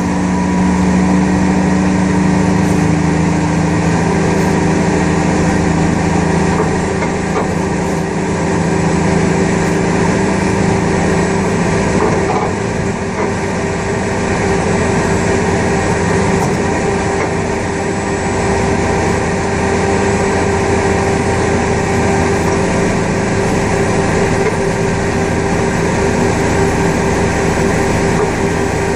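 Loud, steady machinery noise of an Airbus A380 pushback, with a drone carrying several steady tones. The pitch of the tones shifts about four seconds in, then holds.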